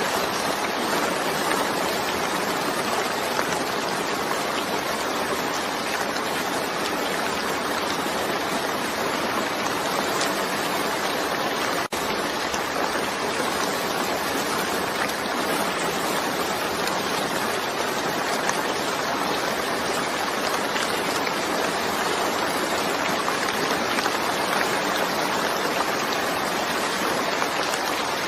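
Steady, even rain hiss with no thunder and no breaks, except a momentary dip in level about twelve seconds in.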